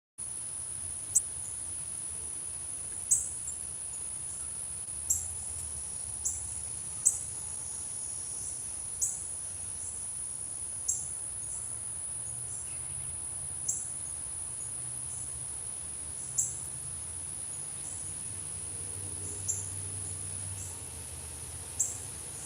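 Steady high-pitched insect chorus, with a bird's short sharp chip notes repeated about a dozen times at irregular one-to-three-second gaps.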